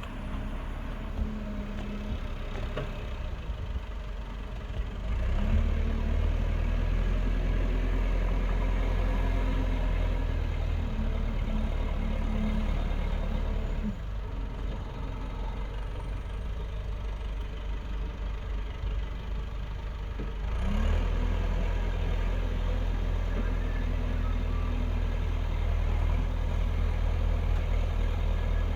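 Heavy engine running steadily with no one speaking over it. It is loaded down and grows louder about five seconds in, eases back around fourteen seconds, and takes the load again about twenty-one seconds in.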